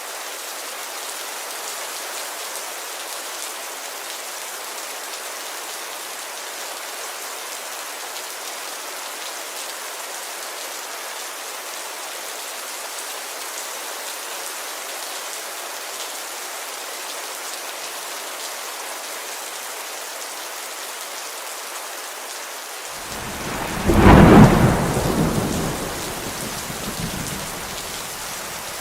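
Steady rain pattering on a window pane. Near the end a loud thunderclap breaks in suddenly and rumbles away over a few seconds.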